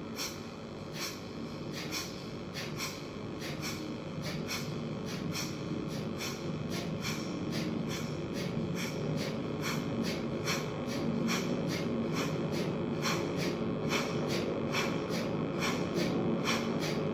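Kapalbhati breathing: a rapid, even series of short, forceful exhalations puffed out through the nose, about two a second.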